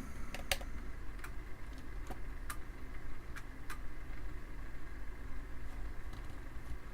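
Mouse buttons clicking now and then, irregularly, over a steady low hum.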